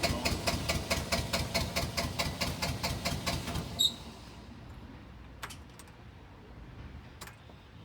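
Bobcat 328 mini excavator's diesel engine turned over on the starter motor, an even chugging of about five compression strokes a second, without catching. The cranking stops abruptly with a click a little under four seconds in, then only a faint low hum and a few faint ticks remain.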